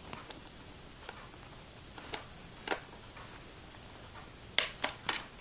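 Small sharp metal clicks and taps from working a small screw into a 2.5-inch drive adapter bracket, a few scattered at first, then three louder clicks in quick succession near the end.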